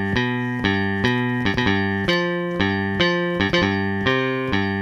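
A GarageBand software instrument playing a repeating chord pattern, struck about three times a second, with the chord changing every second or so.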